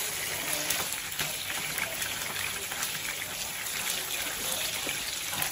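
Chicken pieces sizzling in hot oil in a frying pan: a steady sizzle with many small crackles.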